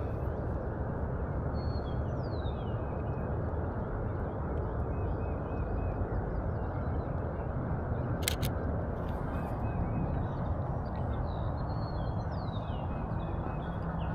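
Steady outdoor rumble, like wind or distant traffic, with faint distant bird calls now and then. About eight seconds in comes a quick double click.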